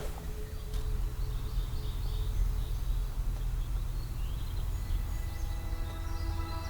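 Outdoor pond ambience: birds chirping over a steady low rumble. Background music comes in near the end.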